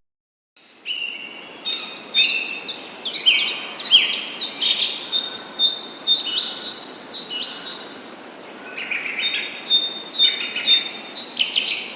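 Several birds chirping and calling together in dense, overlapping short calls. There is a brief lull about eight seconds in before the chirping picks up again.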